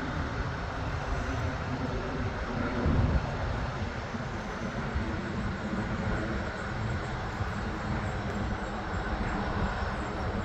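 Jet aircraft coming in to land: a steady engine rumble, with a brief louder swell about three seconds in.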